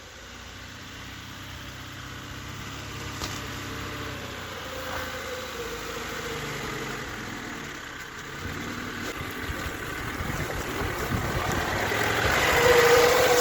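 Niva off-road car's engine running steadily, growing louder over the last couple of seconds.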